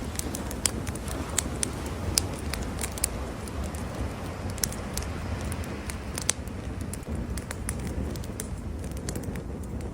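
Wood campfire crackling, with frequent irregular sharp pops and snaps, a few of them louder, over a steady low rumble.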